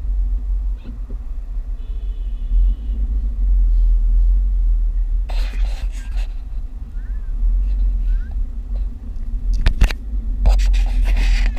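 Steady low rumble of a car on the road, heard from inside the cabin, with a short series of high beeping tones about two seconds in and a few brief clattering noises later on.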